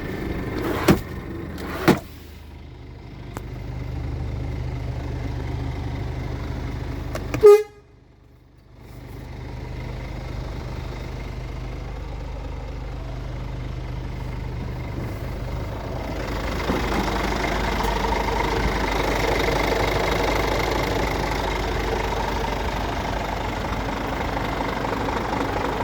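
Scania R450 truck's diesel engine running steadily, with two sharp clicks near the start and a brief loud toot about seven seconds in. The sound drops out for a moment after the toot, then the engine is heard again and grows louder in the last third.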